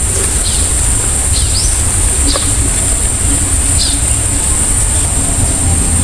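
Rural outdoor ambience: a steady high-pitched insect drone with short bird chirps about once a second, over a constant low rumble.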